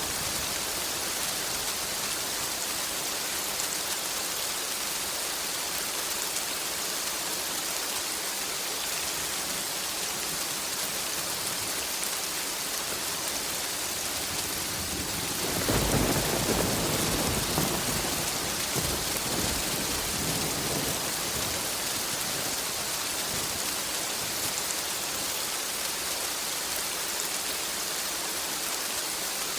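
Steady heavy rain falling, with a roll of thunder about halfway through that comes in suddenly and fades away over several seconds.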